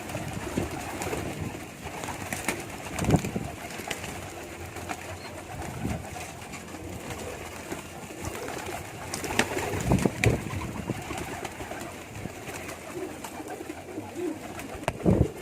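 Domestic pigeons cooing in low rolling calls, with a few short knocks or wing flaps.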